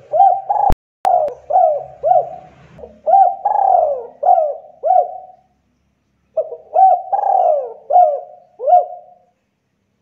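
Spotted dove (tekukur) cooing in two phrases of repeated coos, the first about five seconds long and the second about three seconds after a brief pause. A sharp click comes about 0.7 seconds in.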